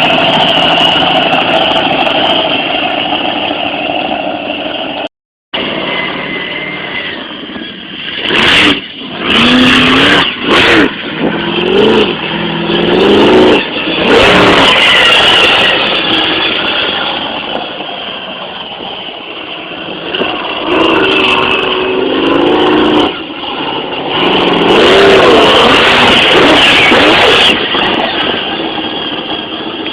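Monster truck's engine running and being revved, the pitch climbing and falling several times in two spells of blips. The sound drops out completely for a moment about five seconds in.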